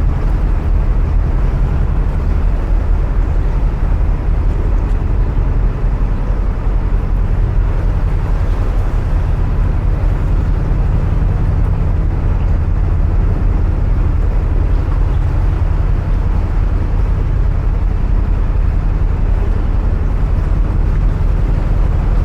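Narrowboat's engine running steadily at cruising speed, a constant low drone, heard inside a long brick canal tunnel.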